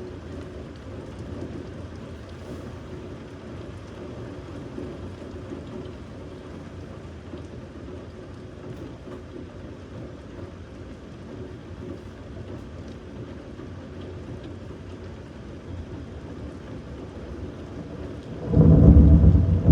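Thunderstorm: steady rain, then a sudden loud clap of thunder near the end that is still rolling as the sound ends.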